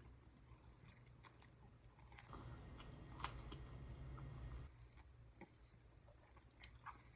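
Faint chewing and small wet mouth clicks of a person eating. A low hum swells for about two seconds in the middle.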